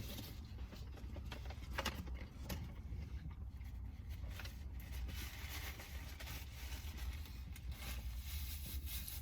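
A person eating a chicken sandwich: quiet chewing with scattered small clicks and rustles of handling, over a steady low rumble.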